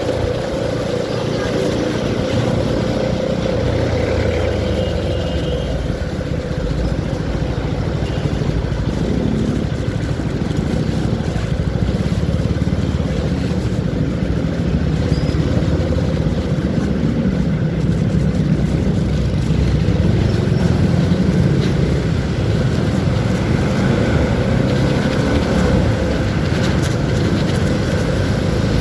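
CFMoto 300SR motorcycle's single-cylinder engine running steadily under way, with loud continuous road noise.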